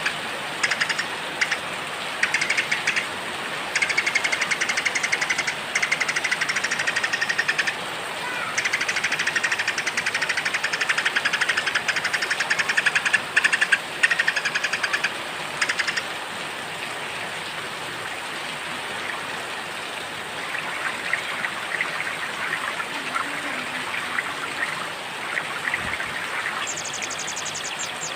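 Small songbirds chirping over steady rain: a fast, rattling trill comes in repeated bursts for the first half, then softer scattered calls, and near the end a quick run of high, falling whistled notes.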